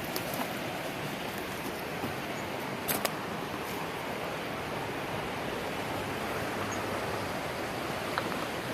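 Swiftly running creek rushing steadily, with a few short sharp clicks, a pair about three seconds in and one near the end.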